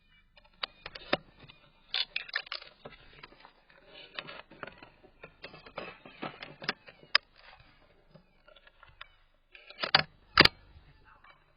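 Irregular mechanical clicking, rattling and rustling handling noise, with a short cluster of clicks near the end and one sharp, loud snap just after it.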